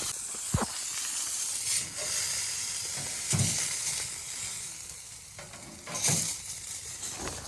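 A steady hiss with a few soft knocks spread through it, about four in all.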